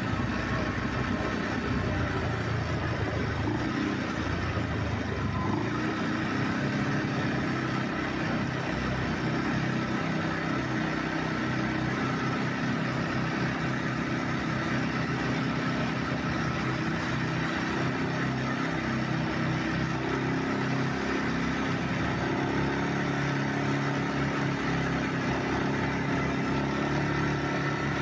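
ATV engine running while riding, its pitch stepping up and down with the throttle.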